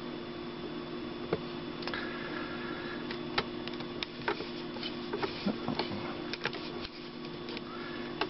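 Irregular small plastic clicks and ticks over a steady low hum, from the animatronic parrot toy's motor and gear mechanism.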